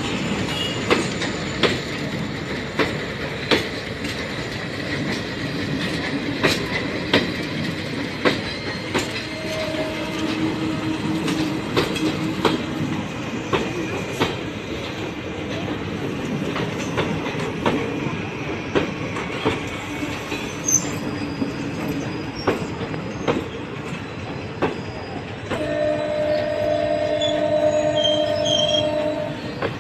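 Passenger train coaches rolling past close by: a steady rumble with the wheels clacking over rail joints about once a second. Near the end a horn sounds steadily for about four seconds.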